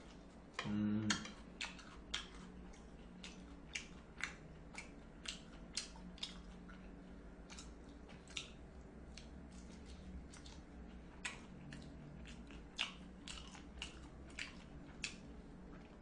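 A person chewing and biting into fried pork cutlet (tonkatsu), with faint, irregular crisp crunches and mouth clicks. A short low hum comes about a second in.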